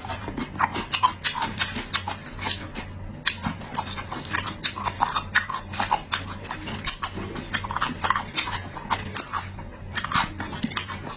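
A person chewing food close to the microphone, with a steady, irregular stream of quick mouth clicks and smacks.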